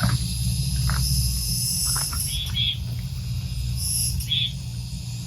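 Insects chirring steadily, crickets among them, with short chirps repeating every second or two over a low steady hum.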